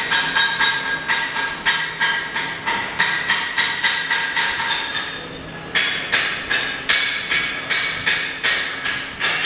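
Hammer striking steel in a fast, even rhythm of about three blows a second, each blow ringing. There is a short break about five seconds in, then the blows resume.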